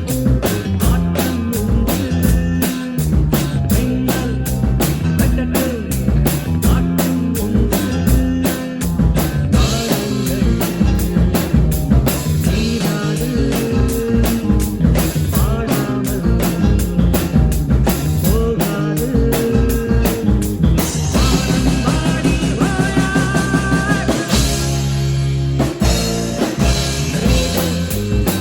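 Drum kit played along to a Tamil film-song backing track with melody instruments, keeping a steady beat. About three-quarters through, the cymbal and drum strikes drop out briefly, then the groove resumes.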